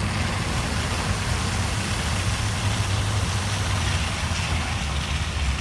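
Steady hum of a car's engine with road noise while driving, heard from inside the car.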